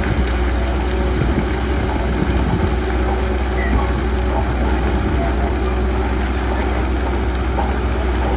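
Heavy diesel engine of a bulldozer running steadily with a deep, even drone.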